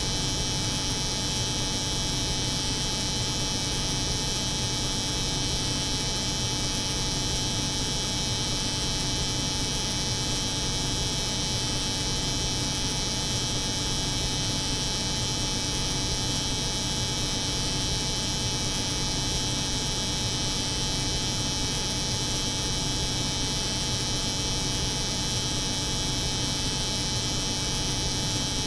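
An electric hair clipper buzzing steadily, layered with the steady hum of a cold room's refrigeration machinery, forming one continuous, unchanging white noise.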